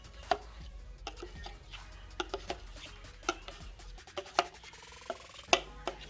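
A spoon clinking and scraping against a mixing bowl as thick cheesecake filling is spooned out: a string of irregular sharp clicks and taps.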